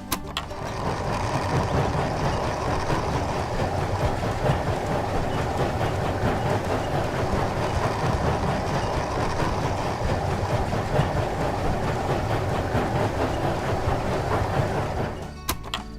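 A machine running steadily with a dense, fast rattle, cutting in just after the start and stopping abruptly near the end.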